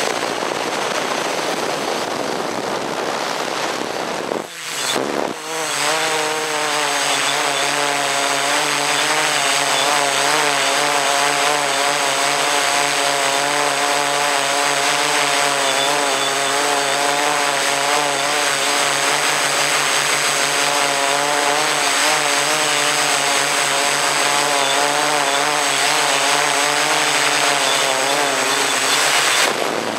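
A radio-controlled model aircraft's motor and propeller run steadily at speed, heard from the airframe, the pitch wavering slightly. The sound dips briefly and picks up again about four to five seconds in.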